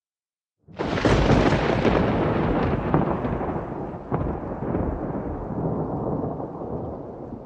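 Silence, then about a second in a sudden clap of thunder breaks with several sharp cracks and rolls into a long rumble that slowly fades.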